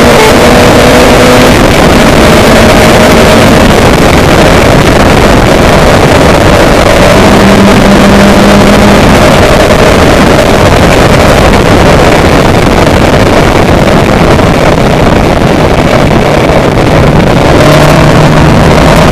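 A loud, steady engine running under dense rushing noise, with faint tones that drift slowly up and down in pitch.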